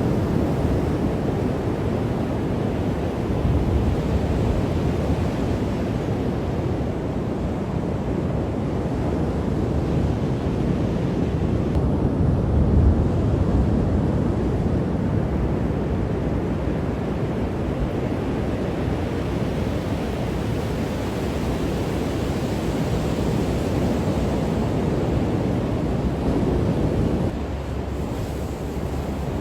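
Ocean waves breaking as steady surf, with wind rumbling on the microphone; the level drops a little near the end.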